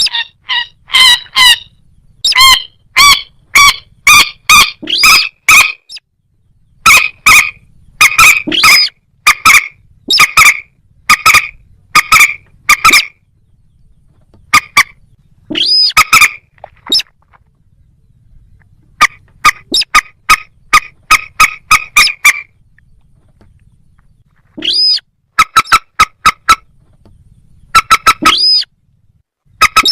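Rail calls, a moorhen or crake: loud, short, sharp notes repeated in runs of several at about two to three a second, with short pauses between the runs.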